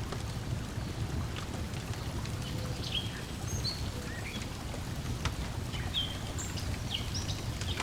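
Layered lakeside ambience: a steady wash of lapping water with a wood fire crackling in small sharp pops, and birds chirping in short calls, several of them in the second half.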